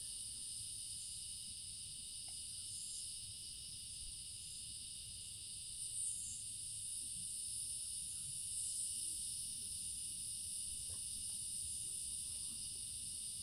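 A steady, high-pitched chorus of insects chirring, over a faint low rumble of outdoor background noise.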